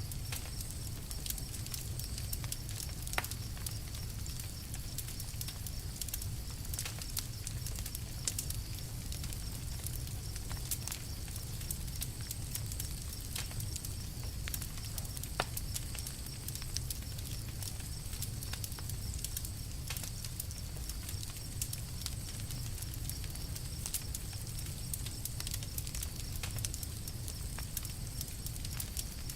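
Campfire crackling: irregular sharp pops and snaps, a few louder ones, over a steady low rumble and a soft hiss.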